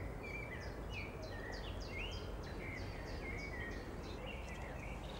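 Woodland birds singing: a steady run of short, high chirps, many sliding quickly down in pitch, about two or three a second, over a steady low background rumble.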